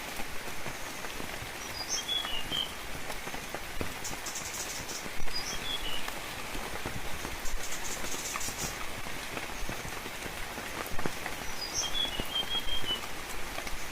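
Steady rain falling, with many separate drops pattering, and short high bird chirps three times: about 2 seconds in, about 5 seconds in, and near the end.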